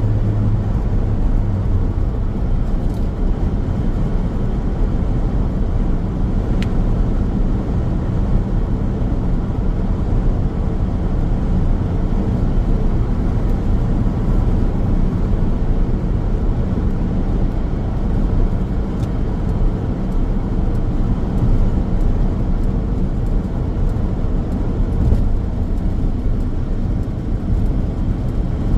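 A car driving along a road at steady speed: constant tyre and road noise with a low engine hum underneath.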